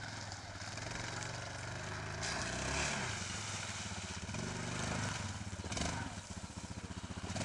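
ATV engine running, revving up and easing off, with its pitch rising and falling.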